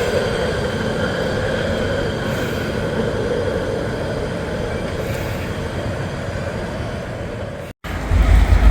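CSX freight train cars rolling past at speed: a steady rolling rumble with a thin, steady high squeal from the wheels, easing off slightly. It cuts off abruptly near the end, followed by a brief low rumble.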